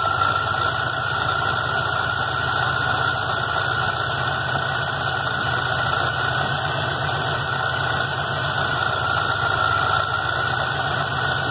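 Carbureted engine with a Weiand supercharger idling steadily, a steady high whine sitting above the idle note, while its idle mixture is being tuned for the highest vacuum.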